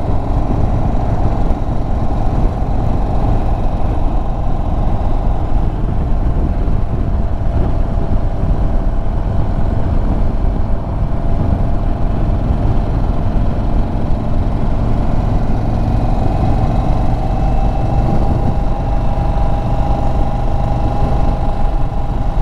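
Indian Chief Bobber Dark Horse V-twin engine running steadily while the motorcycle is ridden. Its tone rises a little in pitch about two-thirds of the way in.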